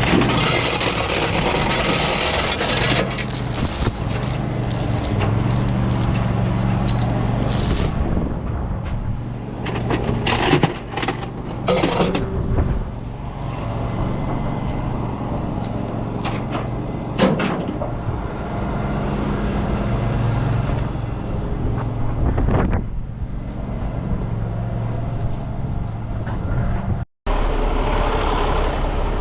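A truck engine running steadily, with a few sharp metallic clanks about ten to twelve seconds in and once more a few seconds later.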